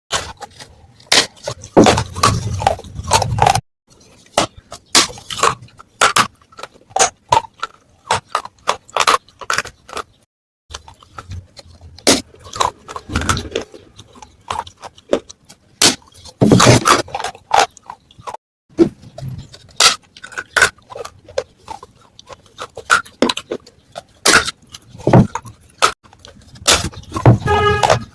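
Pieces of baked clay pot (matka) being bitten and chewed: dense, irregular crisp crunches and crackles, broken twice by a sudden moment of silence.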